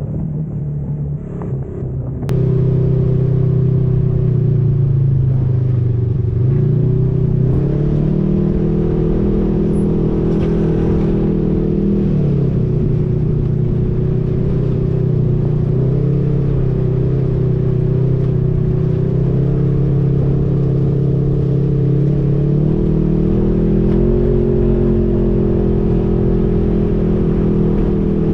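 Off-road vehicle engine running on a trail, its revs rising and falling several times as it drives. The sound gets suddenly louder about two seconds in.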